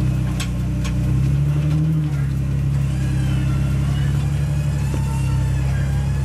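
A Jeep's engine running at low revs under load as the Jeep crawls up a rock ledge, its low hum shifting slightly about two seconds in, with two sharp clicks within the first second.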